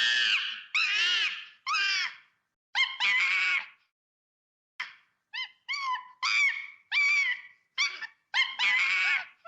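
A dog giving a series of short, high-pitched calls, about a dozen, each rising and falling in pitch, with brief silences between them.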